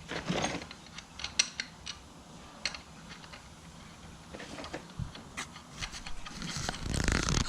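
Scattered small metal clicks and rubbing as lug nuts are threaded by hand onto an ATV wheel's studs, with a louder rustling, scraping swell near the end.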